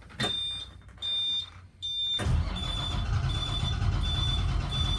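2003 Blue Bird All American school bus diesel engine being cranked by the starter without catching, a fault that appears to be fuel-related. Three short dashboard warning beeps sound first, and the beeping keeps repeating through the cranking.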